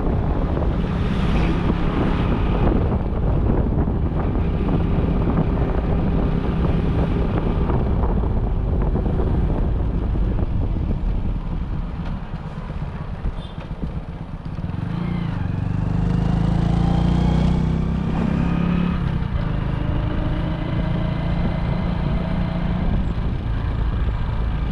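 Motorcycle engine running steadily while riding. About fifteen seconds in, the engine note climbs for a few seconds as it speeds up, then settles.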